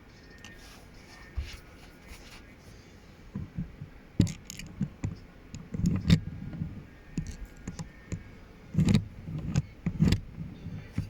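Irregular clicks and knocks of plastic Lego parts being handled, few at first and then thicker and louder from about four seconds in, with some dull thumps.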